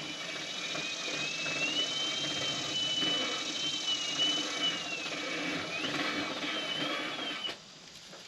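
A small motor running with a high whine that wavers in pitch, stopping suddenly about seven and a half seconds in.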